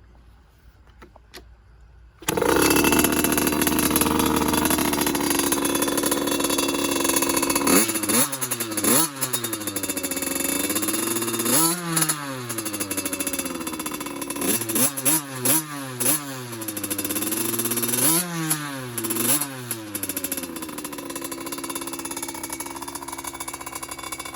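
2022 Cobra CX50 P3 youth motocross bike's 50cc two-stroke engine firing up about two seconds in and running at a steady idle, then revved up and down many times in quick blips before settling back to an idle.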